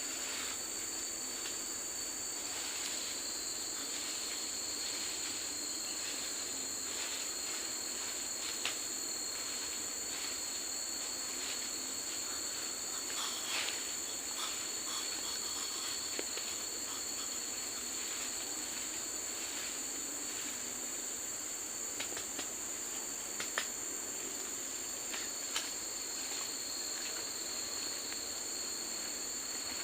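Steady high-pitched drone of forest insects, with two pitches held throughout, and a few faint sharp clicks or knocks scattered through it.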